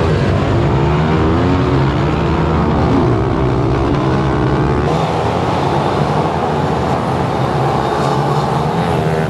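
Several small pit bike engines revving hard together, rising and falling in pitch, as in a race start off the line.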